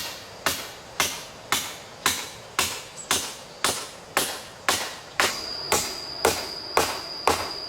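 Steady, evenly paced blows of a hand tool striking wood, about fifteen strikes at roughly two per second, each sharp with a short ring. A steady high-pitched tone joins about five seconds in.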